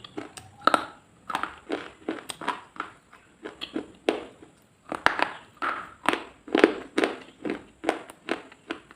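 Repeated crisp crunching, about two to three crunches a second in an uneven rhythm, as something brittle is crushed or bitten.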